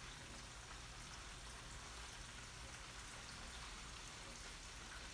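Faint, steady crackling sizzle of chicken deep-frying in hot oil.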